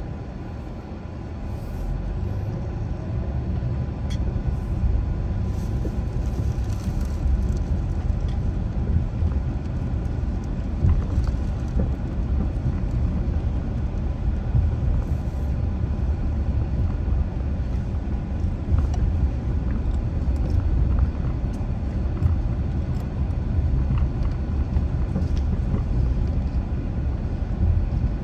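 Car driving along a road: a steady low rumble of tyres and engine that swells slightly in the first couple of seconds, then holds.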